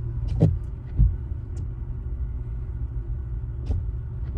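Steady low rumble of a vehicle driving slowly, heard from inside, with a few short knocks and clicks.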